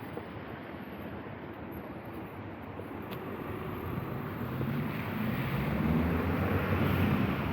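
A motor vehicle approaching on a wet road: the hiss of tyres on wet asphalt and the low sound of its engine grow steadily louder through the second half.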